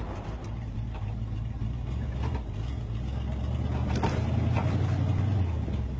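Big-block Chevrolet 454 V8 in a Toyota pickup running under way, heard from inside the cab. It grows louder about three seconds in and eases off shortly before the end.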